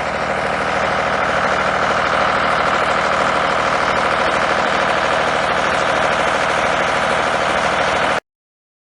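An engine running steadily at an even speed, which stops abruptly about eight seconds in.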